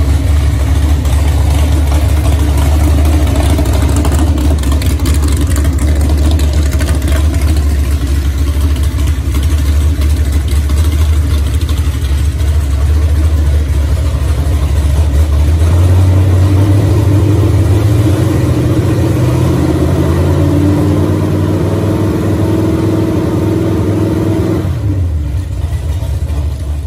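Chevy 427 big-block V8 stroked to about 490 cubic inches, running on an engine run-in stand at around 1000 rpm. Its speed slowly climbs over the second half, then drops back shortly before the end.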